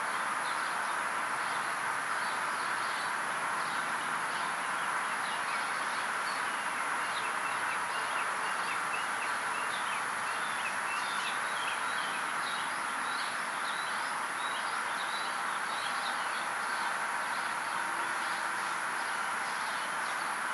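Small birds chirping, many short high calls scattered throughout, over a steady hiss.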